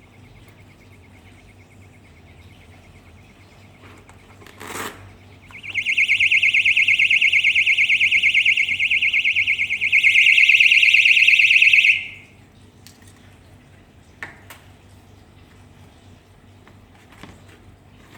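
Electronic alarm buzzer sounding a loud, high-pitched tone for about six seconds, its pattern changing partway through before it stops. A click comes just before it starts, and a faint steady high tone runs underneath at first.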